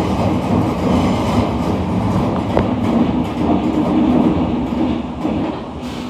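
Merseyrail electric train running through a tunnel, heard from inside the carriage: a steady rumble of wheels on rails, with one sharp click about two and a half seconds in. The noise eases off near the end.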